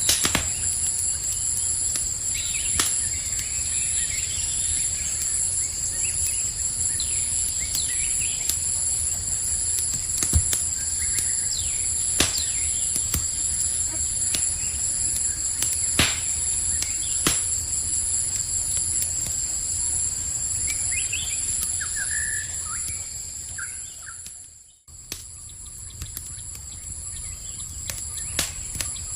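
Campfire crackling with a sharp pop every few seconds, over a steady high-pitched chorus of night insects and a few bird chirps. About five seconds before the end the whole sound dips out briefly and comes back.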